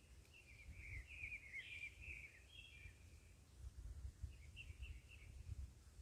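Songbird singing: a long run of rapid, high chirping notes from about half a second in to nearly three seconds, then a shorter run a couple of seconds later, faint over a low rumble.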